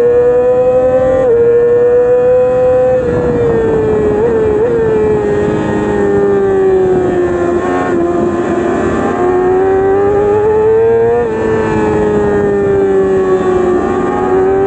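Yamaha R6 inline-four race engine running high in its rev range on track, its pitch sagging slowly and climbing again, with brief sudden dips in pitch about a second in and about eleven seconds in.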